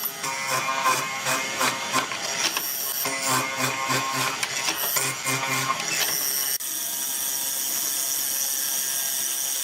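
Workshop tool noise over rhythmic background music; about two-thirds of the way in the sound changes suddenly to a steady machine hiss with a thin high whine, typical of a power tool running on wood.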